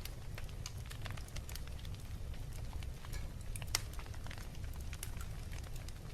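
Fireplace fire crackling: irregular small snaps and pops over a steady low rumble, with one sharper pop a little past halfway.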